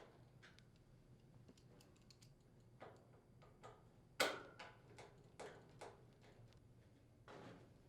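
Faint, scattered clicks and taps of screws being driven into the sheet-metal rear access panel of a range, the sharpest click about four seconds in.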